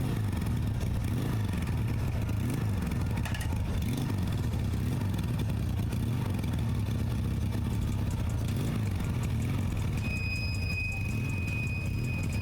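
Motorcycle engines running, their pitch rising and falling as they are revved. A steady high-pitched tone joins about ten seconds in.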